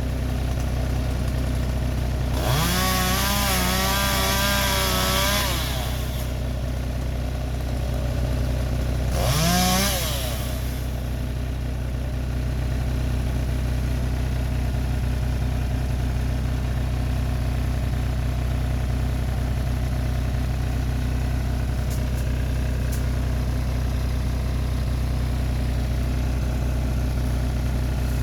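A motor engine running steadily at a low idle, revved up twice: once for about three seconds and once briefly, its pitch rising quickly and then holding.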